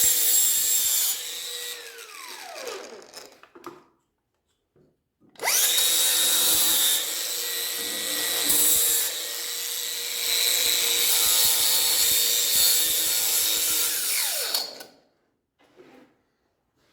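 Angle grinder grinding an exhaust pipe fitting in two runs: a short burst of about two seconds that winds down, then a longer run of about nine seconds starting around five seconds in, its pitch falling as it spins down near the end.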